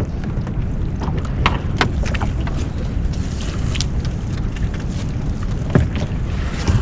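Steady low rumble from a small fishing boat, with wind on the microphone. Scattered clicks and knocks run through it as a crab gillnet is hauled aboard.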